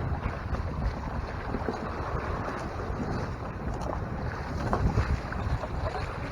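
Wind buffeting the microphone in gusts, over water rushing and splashing past the hull of a Hobie Mirage Tandem Island sailing kayak under sail.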